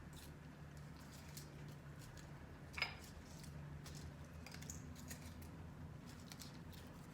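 Faint kitchen handling noises: scattered light taps and clicks, with one sharper click about three seconds in, over a low steady hum.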